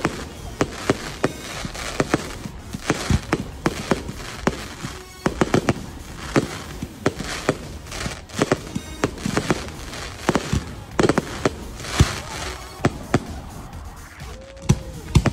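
Aerial firework shells bursting overhead in a dense, irregular volley of bangs, many of them close together, with the loudest about twelve seconds in and a pair near the end.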